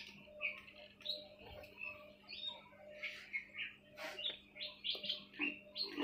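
Small birds chirping: a quick, irregular run of short high chirps over a faint steady hum.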